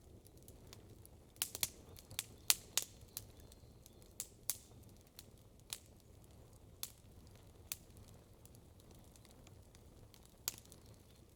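Wood campfire crackling, with sharp irregular pops that come in a quick cluster in the first few seconds, then only every second or so.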